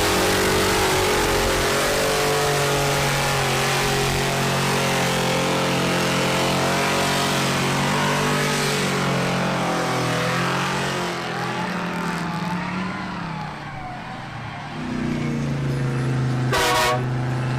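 Mega truck engines running hard in a mud pit, their pitch rising and falling under a loud rushing noise. The noise eases about two-thirds of the way through, then the engines run steadier, with a brief loud blast near the end.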